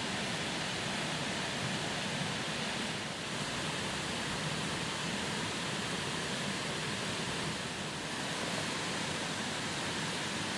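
Steady, even rushing noise with no distinct events, like rain or running water.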